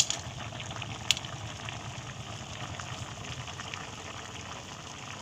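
Coconut milk broth with shellfish bubbling at a boil in a metal pot, a steady crackle of popping bubbles. A spoon clinks against the pot at the start and again about a second in.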